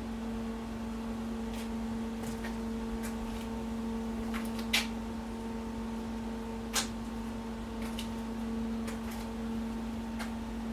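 A steady machine hum with a few short, sharp clicks scattered through it, two of them louder, about five and seven seconds in.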